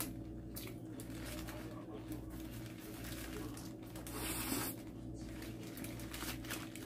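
Chewing a mouthful of shrimp burger, with small wet mouth clicks. There is a short rustle of crinkling paper about four seconds in, over a steady low hum.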